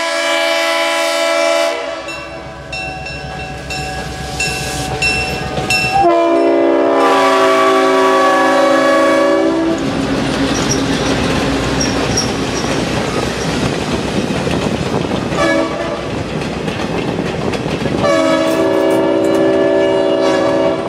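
Locomotive horn sounding several long chord blasts as the train approaches, then railroad cars rolling past with clattering wheels, and the horn sounding again near the end.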